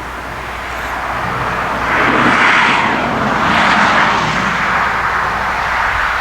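A car passing close by: its engine and tyre noise swell to a peak and fade slightly as it goes.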